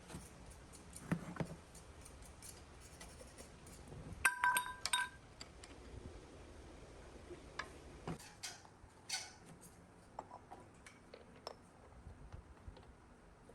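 Light metallic clinks and taps from small metal parts being handled, with a cluster of ringing clinks about four to five seconds in and scattered clicks after.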